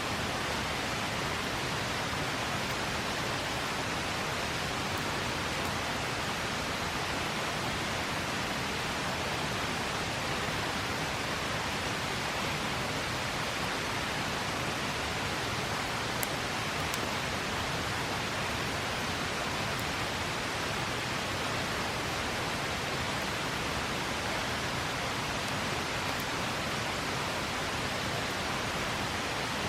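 River water flowing, a steady rushing, with a few faint ticks around the middle.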